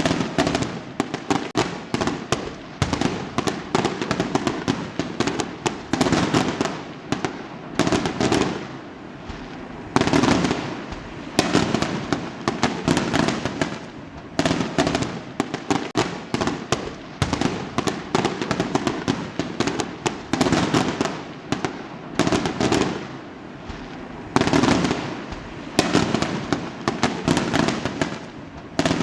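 Fireworks going off one after another, every second or two, each burst a dense crackle of sharp pops.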